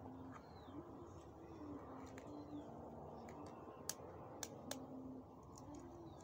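A bird's low cooing calls, faint and repeated in short phrases. A few sharp clicks about four seconds in, from an eggshell being cracked with a fork.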